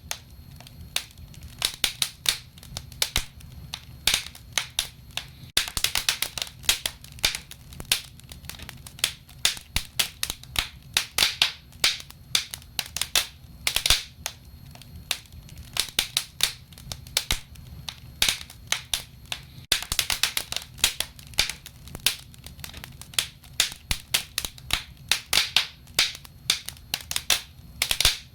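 Wood fire crackling: a dense, irregular run of sharp pops and snaps, several a second, over a faint low steady hum.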